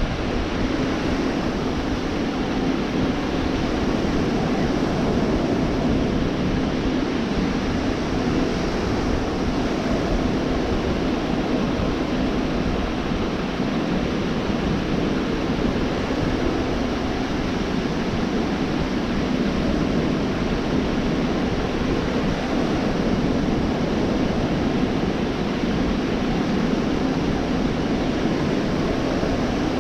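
Gulf of Mexico surf washing onto a sandy beach: a steady, unbroken rush of breaking waves with no single wave standing out.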